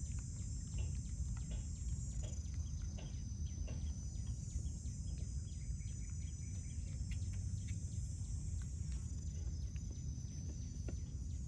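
A steady, high-pitched insect chorus over a low rumble, with scattered faint clicks.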